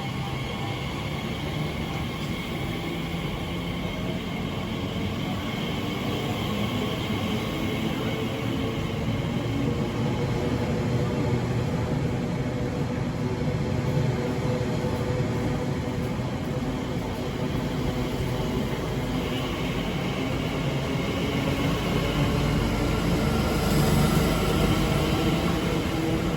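Elizabeth line Class 345 electric train pulling away, its traction motors whining in several steady tones over the rumble of wheels on rail, growing gradually louder toward the end.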